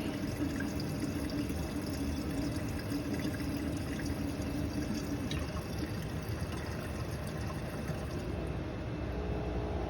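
Dishwasher drain pump running with a steady hum, pumping water out into the sink drain, which now flows freely with the garbage disposal cleared instead of backing up into the sink. About eight seconds in the sound changes as the water runs out.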